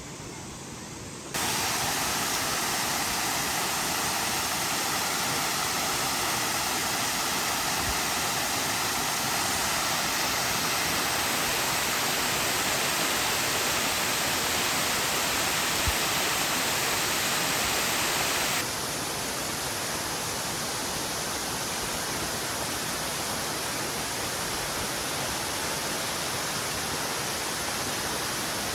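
Waterfall: a steady rush of falling water. It comes in suddenly about a second in and drops a little in level about two-thirds of the way through.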